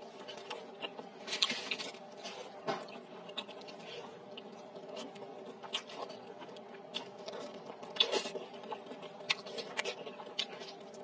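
Close-miked eating sounds: chewing, lip smacks and wet mouth clicks as meat is gnawed off the bone and spicy noodle soup is eaten, scattered irregularly over a faint steady hum.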